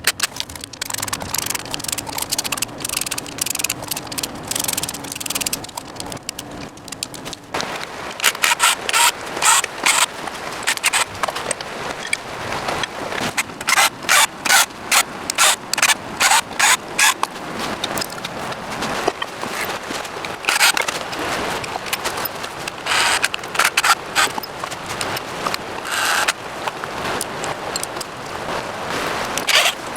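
Rhythmic scraping strokes of hand work on a part, in runs of about two strokes a second with short pauses between the runs.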